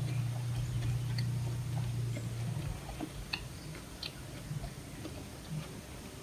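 A person chewing food with the mouth closed: soft, scattered wet mouth clicks. A steady low hum is also present and stops about two and a half seconds in.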